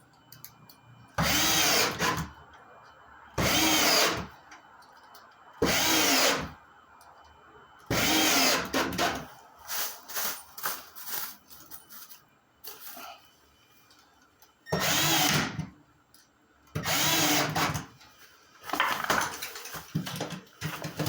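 Power drill driving drywall screws through sheetrock into wood backing. It runs in about six spurts of roughly a second each, each with a rising whine, and makes shorter stop-start spurts in between and near the end.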